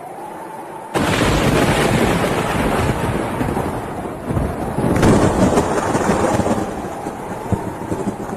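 Thunder during a storm: a sudden loud crack about a second in, then a long rolling rumble that swells again about halfway through before fading.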